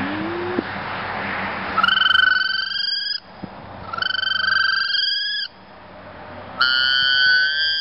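Cocobolo wood duck call blown in three drawn-out whistles, each about a second and a half long and gliding slightly upward in pitch, after a short low rising hum right at the start.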